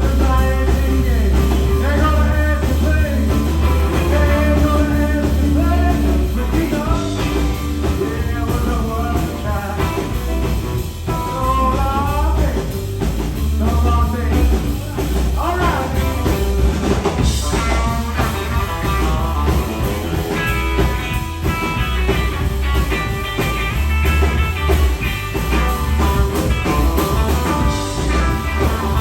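Live rock trio playing: electric guitar lines with pitch bends over electric bass and a drum kit.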